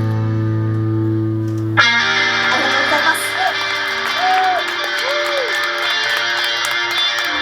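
Loud rock music with electric guitar: a chord is held, then about two seconds in the full band comes in, with a few sliding notes over it.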